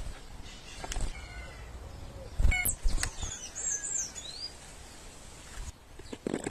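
Small birds fluttering and landing at a feeding tray: several short wing flaps and knocks, with a few brief chirps about midway.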